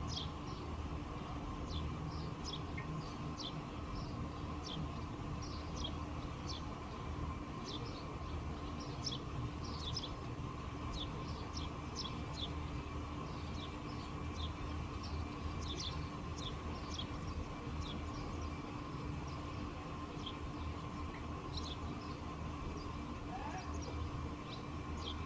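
Small songbirds chirping outdoors, many short high chirps scattered throughout, over a steady low background rumble.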